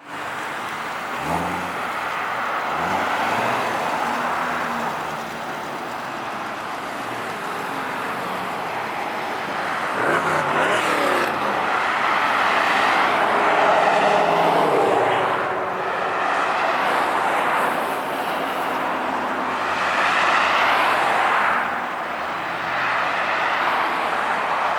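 Car engines driving past and revving, rising and falling in pitch several times over a steady background of outdoor noise.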